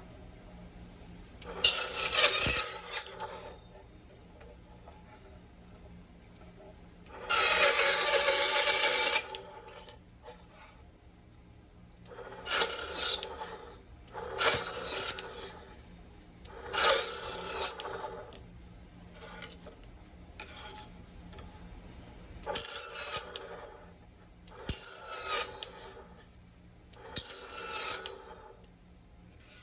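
Cuttlebone being cut: eight short spells of dry rasping strokes with pauses between them, the longest about two seconds.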